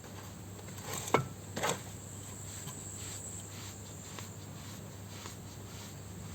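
Two short metal knocks about a second in, as mower parts are handled and set down, then a steady faint hiss with a low hum.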